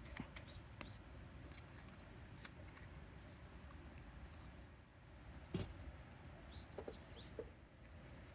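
Faint scattered clicks and ticks over a low background hum. A few short bird chirps come near the end.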